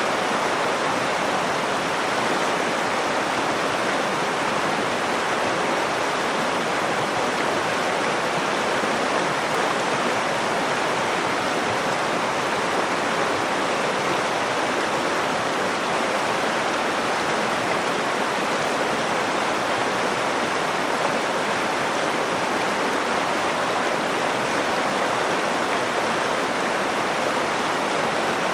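Nakdong River water flowing in a steady, unbroken rush.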